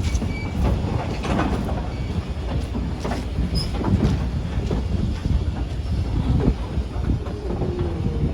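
Railroad train in motion: a steady low rumble from the wheels on the rails, broken by irregular clicks and knocks.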